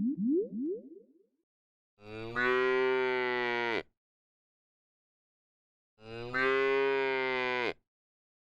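A quick run of short rising cartoon swoops, then a cow mooing twice, each moo a long, steady call of about two seconds with a pause between.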